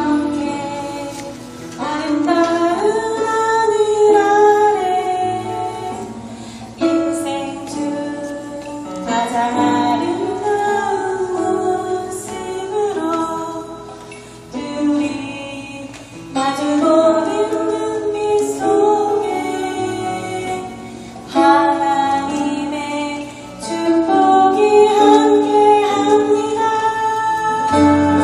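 Christian gospel song: women singing a slow melody over instrumental accompaniment, in phrases of a few seconds each.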